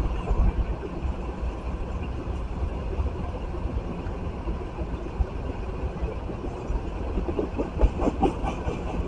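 Freight train of crude-oil tank cars rolling through a grade crossing, heard from inside a car stopped at the crossing: a steady low rumble with a short run of wheel clacks about eight seconds in.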